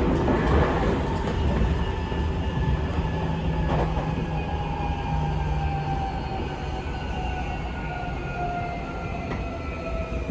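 Seibu 6000 series train's Mitsubishi SiC-VVVF inverter and traction motors whining as the train brakes, several tones falling slowly in pitch over the rumble of the wheels, with an occasional click from the rails. The falling whine is the sign of the train slowing into a station.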